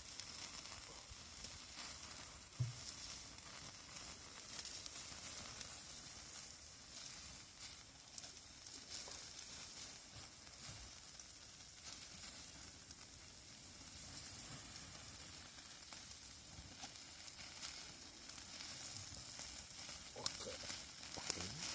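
Steak frying in melted butter: a steady sizzle, with one low knock about two and a half seconds in.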